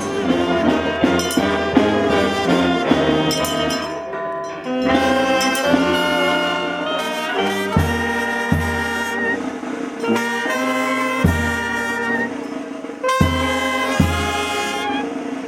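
Brass band music: trumpets and trombones playing a melody over a repeating bass line that grows stronger about halfway through.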